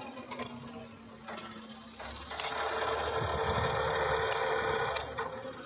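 A few scattered knocks, then a machine runs steadily with a constant hum for about three seconds from a little over two seconds in, and fades out near the end.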